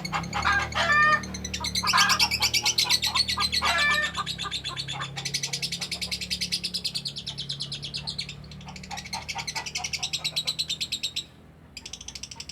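Lovebird giving a long 'ngekek' song: a fast, unbroken chatter of high chirping notes, mixed with a few lower swooping calls in the first few seconds. It breaks off briefly about eleven seconds in, then starts again.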